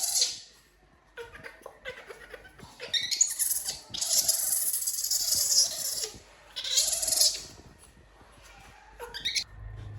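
Baby monkey giving breathy, high-pitched cries in several bursts, the longest lasting about two seconds midway.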